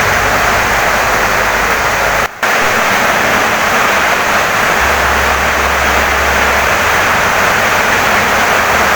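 Heavy rain pouring steadily on a wooden house, a dense, even hiss of rain, broken by a brief drop in level a little over two seconds in.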